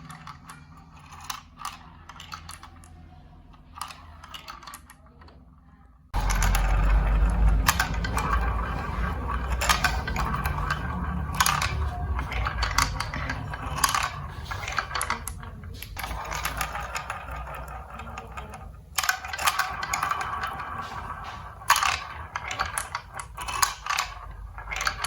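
Marbles rolling and clattering through a building-block marble run, with many sharp clicks as they strike the track pieces. About six seconds in it gets suddenly louder, turning into a continuous rolling rumble with rapid clicking.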